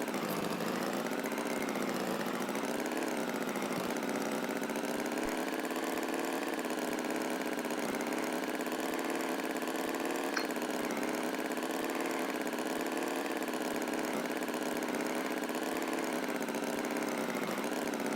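Tractor engine idling steadily, a continuous even running sound that wavers slightly in pitch.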